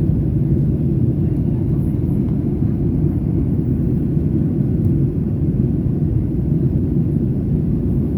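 Steady cabin noise inside a Boeing 737-800 in flight: an even, low rumble of the CFM56 engines and the air rushing past the fuselage.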